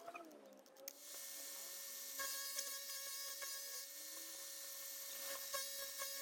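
Small grinder spinning a sandpaper-faced disc, starting about a second in with a steady whine and a high abrasive hiss as it grinds a drill bit.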